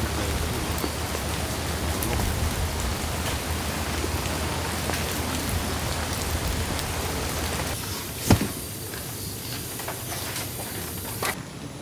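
Steady rain falling, a dense even patter. A little before eight seconds in the rain sound thins, and a single sharp knock follows just after.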